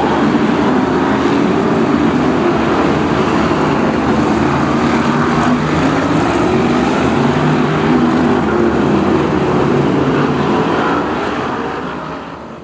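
Several BRISCA F1 stock cars' V8 engines running at racing speed, a dense, loud, steady engine sound with pitch wavering as the cars lap. It fades out near the end.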